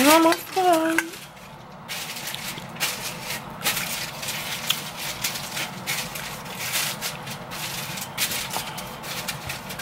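Close-up eating sounds: chewing with irregular wet smacks and clicks, starting after a short hummed vocal sound in the first second.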